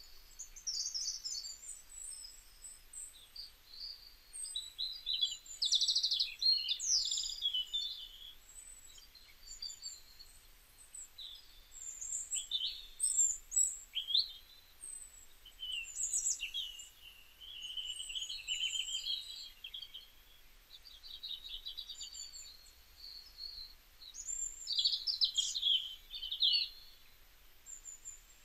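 Small songbirds chirping and singing: short whistled notes and quick trills, coming in bursts and pauses throughout.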